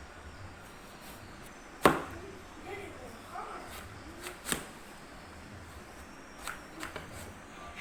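A few sharp knocks: one loud one about two seconds in, another about halfway through, and two softer ones near the end.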